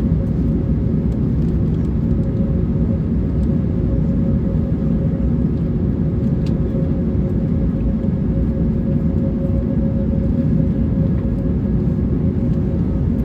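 Airbus A321neo cabin noise while taxiing: a steady engine rumble with a constant hum.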